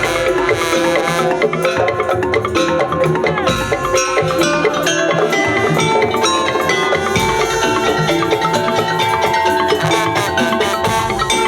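A Madurese traditional drum ensemble (gendang) playing without a break: drums and struck percussion keep a busy beat under held melodic tones.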